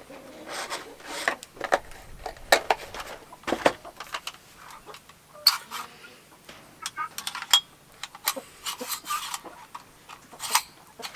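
Woven grain-sack material rustling and rubbing as it is handled. Several sharp clacks at uneven intervals come from a manual Powershot reverse-grip staple gun driving T50 staples.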